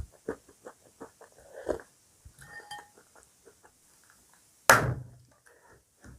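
Close-up eating sounds of crunchy breakfast cereal: many short, crisp crunches and clicks. About three-quarters of the way in comes one loud, sharp knock.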